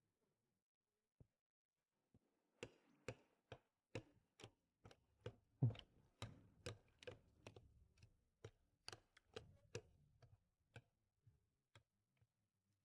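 Faint, irregular taps of a kitchen utensil against a bowl, about two a second, while cottage cheese and green onion are being mixed.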